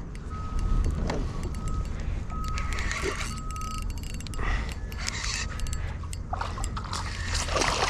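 Wind buffeting the microphone as a steady low rumble, with scattered sharp clicks and a short steady high tone that sounds on and off several times.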